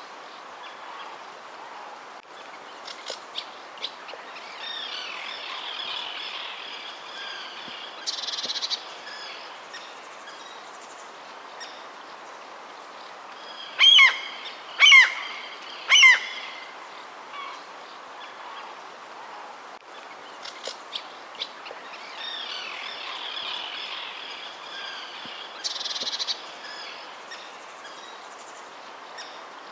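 Wild birds calling and singing, with stretches of busy high twittering and, about halfway through, three loud downward-sweeping calls about a second apart, over a steady faint outdoor hiss.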